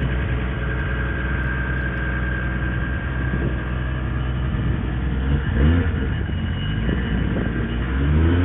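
Lexus IS's built 2JZ-GE-based inline-six idling steadily just after being started, with one brief rev blip about five and a half seconds in and the revs rising again near the end.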